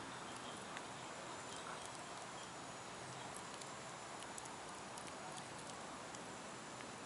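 Bonfire burning with a steady hiss and scattered small crackles and pops.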